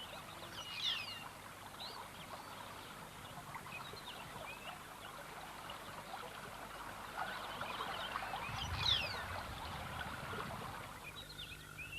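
The flooding Tsavo River running, a steady rush of moving water, with a few short high chirps over it about a second in and again near the end.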